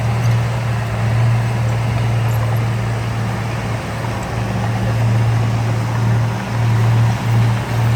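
Diesel engine of heavy earthmoving machinery running steadily with a low drone, wavering a little in loudness with short dips near the end.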